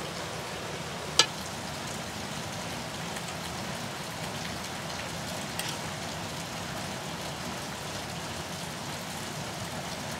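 Steady rain falling. A sharp click about a second in and a fainter one near six seconds: a metal spoon striking the metal rice platter.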